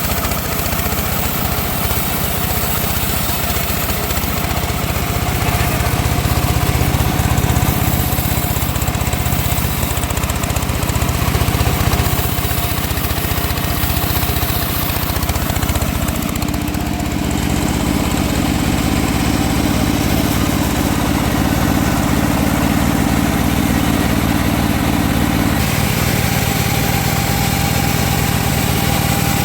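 Engine-driven sawmill running steadily while sawing teak. Its tone shifts about halfway through and again near the end.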